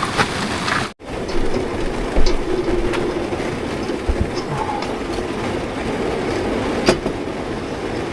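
Heavy rain pounding steadily on a parked vehicle's roof, a dense rush with scattered sharp ticks and knocks, broken off briefly about a second in.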